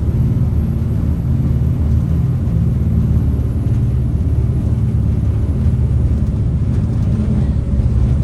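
Jet boat's turbo diesel engines running hard under way, a loud steady low drone.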